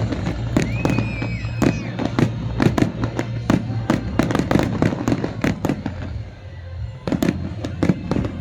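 Fireworks display: rapid, dense bangs and crackles from bursting shells. A brief high whistle comes about a second in, and there is a short lull near the end before the bangs resume.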